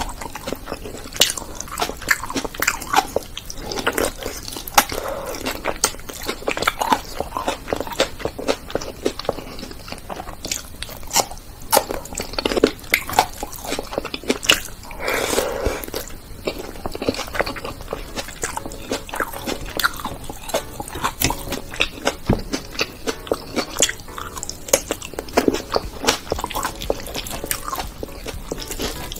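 Close-miked chewing and mouth sounds of a person eating rice and curry with her fingers: a dense, irregular run of short wet clicks and some crunching.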